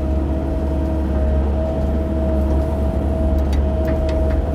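CAT 308 mini excavator's diesel engine running steadily, a constant low rumble with a steady whine over it, heard from inside the cab.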